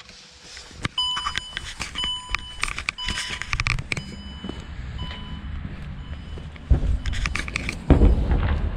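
Car warning chime beeping about once a second from about a second in, fading after a few beeps. Low rumbling and knocks follow, with two louder thumps near the end.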